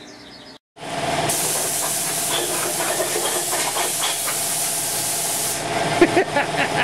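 An engine running steadily under a loud hiss that lasts about four seconds and then stops, followed by a few sharp knocks.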